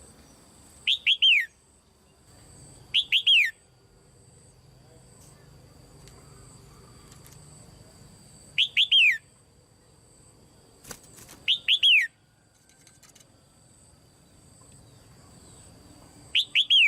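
Caged female red-whiskered bulbul calling. It gives five short bursts a few seconds apart, each of about three quick notes that fall in pitch.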